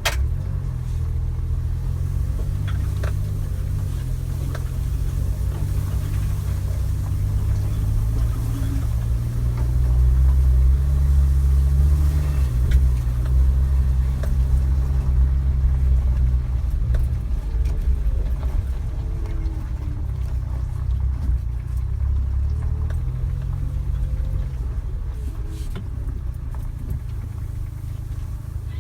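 Suzuki Jimny engine running as the vehicle drives, a steady low drone that swells for several seconds around the middle and then eases off.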